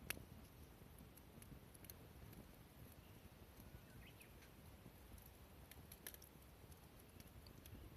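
Near silence with faint, scattered clicks and crackles, one sharper click right at the start.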